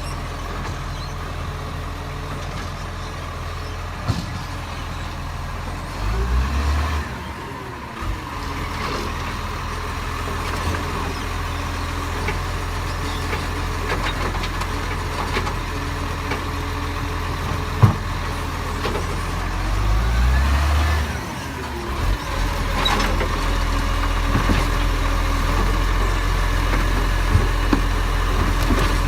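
Garbage truck's diesel engine running steadily, revving up and back down twice, with a single sharp knock between the two revs.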